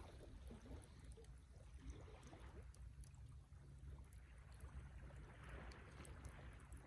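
Wood campfire burning faintly: scattered soft crackles and pops over a low, steady noise.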